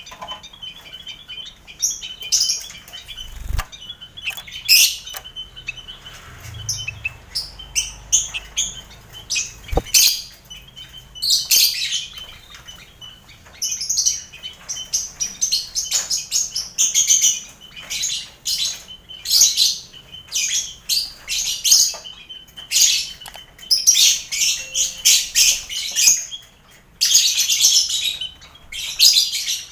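A colony of caged lovebirds, kept together with finches and quail, chattering in many overlapping shrill, rapid chirps and calls that come in thick bursts. There are two soft low thumps in the first third.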